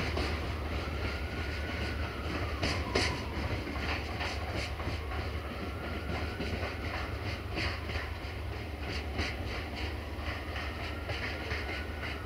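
VT614 diesel multiple unit running away down the line: a steady low engine drone, with the wheels clicking irregularly over rail joints and points, the clicks coming closer together in the second half. A faint high whine rises and falls a few times above it.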